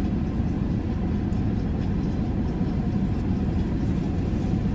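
Steady low rumble inside a car's cabin as it sits in an automatic car wash, the idling engine and the wash machinery outside blending into one even noise.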